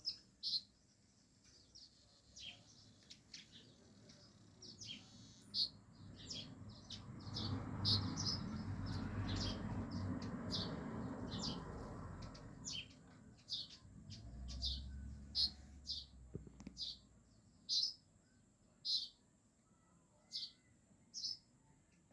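Small yellow birds giving short, high chirps, repeated roughly once a second. A rushing noise swells up and dies away in the middle, louder than the chirps, and a brief low rumble follows.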